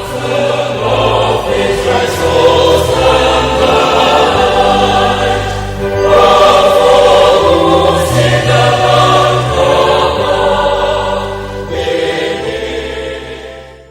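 Choral gospel music with singing voices over a sustained bass, fading out near the end.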